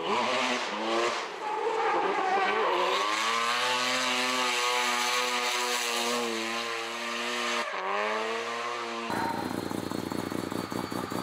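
Mazda FD RX-7 engine at high revs under drift throttle, its pitch rising and falling as the throttle is worked, with a short dip just before 8 s. About 9 s in the sound cuts abruptly to a lower, choppy, evenly pulsing engine note.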